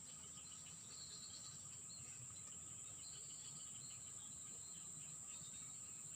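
Faint outdoor ambience of insects, crickets among them, trilling in one steady high-pitched tone, with short chirps coming and going over it.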